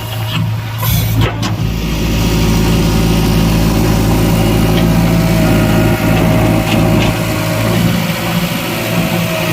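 Heavy diesel engine running steadily, with a thin steady whine above it and a few sharp knocks about a second in.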